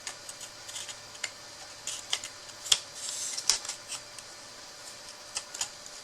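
Light clicks, taps and a brief rustle of cut box pieces being handled and fitted together by hand, the sharpest click a little before the middle.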